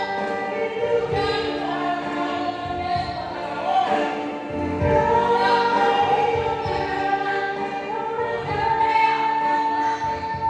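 A choir singing a gospel-style song, several voices holding long notes together over a low beat of accompaniment.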